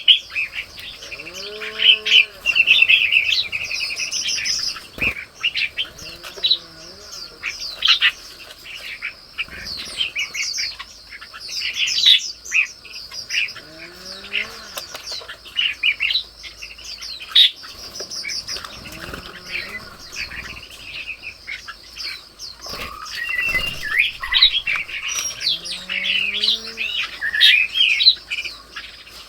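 Many small birds chirping and twittering in quick, overlapping phrases, with a lower, arched call repeating every several seconds.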